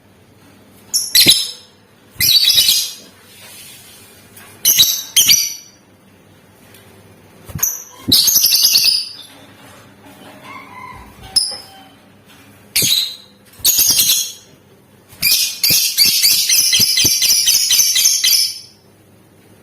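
Lovebird calling in short high-pitched bursts, with one longer call partway through. Near the end comes a rapid chattering trill of about three seconds, the 'ngekek' song.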